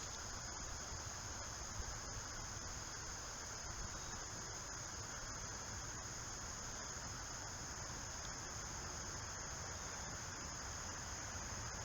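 Steady, unbroken high-pitched insect trilling, typical of crickets, over a low, even background hum.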